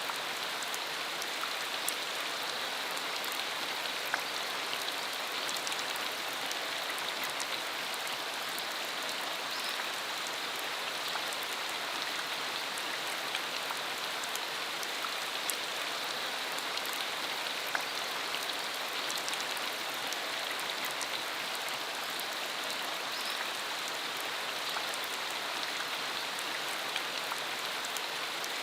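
Steady rain falling, a dense even hiss with many small individual drop ticks scattered through it.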